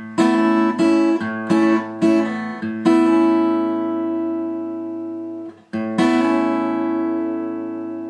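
Acoustic guitar fingerpicked: about five plucked notes in the first three seconds, then the chord is left to ring. After a brief break a new pluck comes in about six seconds in and rings out slowly.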